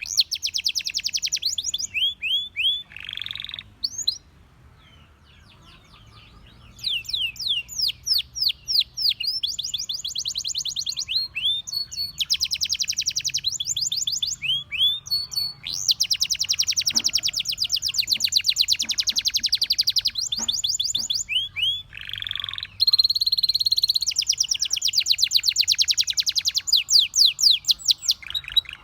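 Canary singing in long phrases of fast repeated chirps and rolling trills, with a few seconds' pause about four seconds in and a long held note past the middle.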